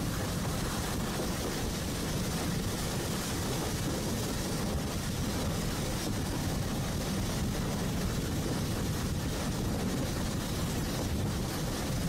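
Oigawa Railway train running along the line: a steady rumble of wheels on track with an even hiss above it.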